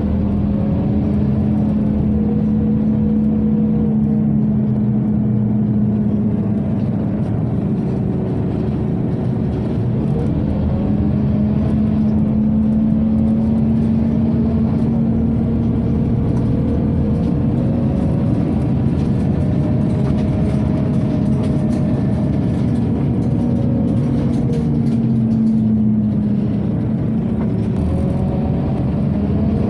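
Scania OmniCity city bus on the move, heard from inside: a steady hum from the ventilation, with the engine and drivetrain note rising and falling several times as the bus speeds up and slows.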